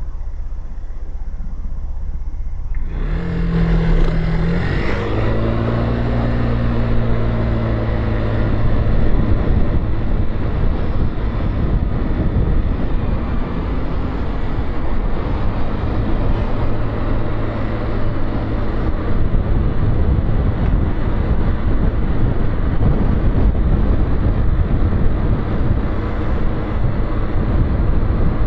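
Motorcycle engine ticking over low, then about three seconds in it pulls away, the pitch climbing and stepping through a gear change. The ride continues at a steady pace with engine, wind and road noise.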